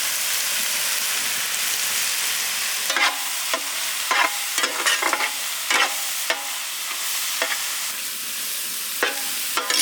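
Shredded chicken and spice powders sizzling in hot oil in a pan, a steady hiss. From about three seconds in, a spoon scrapes and knocks against the pan several times as the mixture is stirred.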